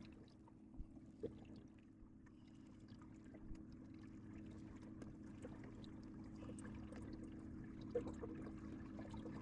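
Faint steady hum from the electric motor of an Old Town Autopilot 120 kayak, with light water sounds against the hull and a few soft knocks, about a second in and near the end.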